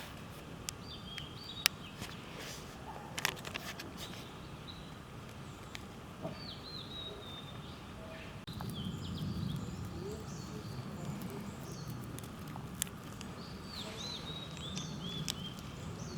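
Small birds chirping in short groups of quick falling notes, with a few sharp clicks or knocks early on and a low steady rumble that grows louder about halfway through.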